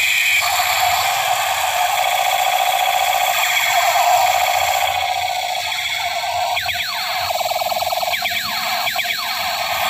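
Battery-powered plastic toy space gun firing its electronic sound effect: a continuous siren-like wail of gliding pitches. About two thirds of the way in, it turns into a run of quick falling sweeps.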